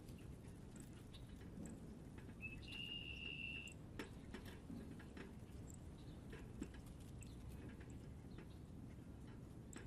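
Faint birds at a feeder: scattered small clicks and taps with brief high chirps, and one steady whistled note about a second long, a couple of seconds in, over a low background rumble.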